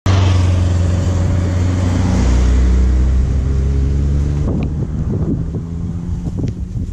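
Yamaha Roadliner's big air-cooled V-twin running at low speed with wind on the microphone, dropping in pitch about two seconds in as the bike slows to a stop, then going quiet about four and a half seconds in. A few light clicks and knocks follow.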